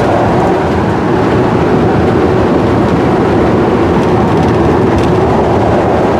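Steady, loud noise of a vehicle on the move: engine and road noise with an even hum and no distinct events.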